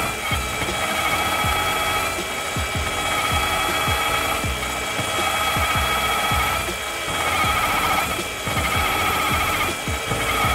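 Cordless Bosch GBH18V-26 rotary hammer driving a drill bit through a wooden beam: a steady motor whine with the bit cutting the wood, dipping briefly a few times as it takes load.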